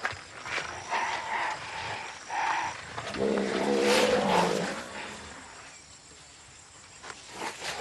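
Animal calls from a young elephant and a young rhinoceros at play: short squealing calls about one and two seconds in, then a longer, lower pitched bellow around the middle.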